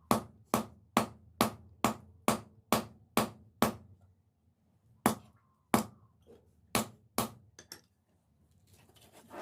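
Hand hammer striking steel on an anvil while forging a knife blade: a steady run of about nine blows at roughly two per second, then after a short pause four more spaced blows and a few lighter taps.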